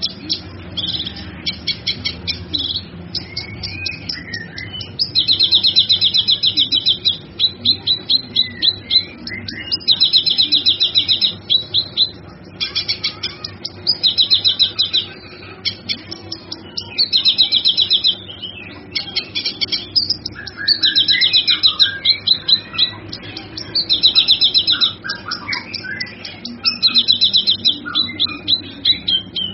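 Cucak kinoi songbird singing: rapid high trills of about a second and a half, repeated every few seconds, with shorter chirps and warbles between them.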